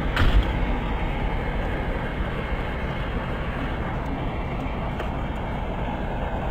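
Steady rushing storm wind, heaviest in the low range, with one short thump just after the start.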